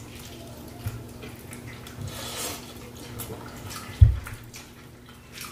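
Close-miked eating: wet chewing and mouth smacks over tender baked turkey wing and macaroni and cheese, with scattered small clicks. One low thump about four seconds in.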